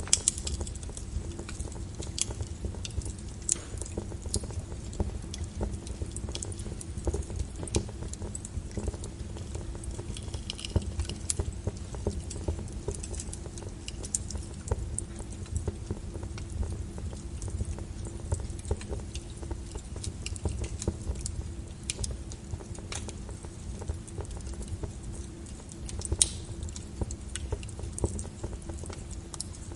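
Log fire in a fireplace, crackling with irregular sharp pops over a low steady rumble of the flames.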